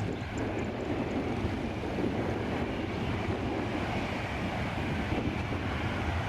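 Jet airliner engines running, a steady noise without breaks, with wind buffeting the microphone.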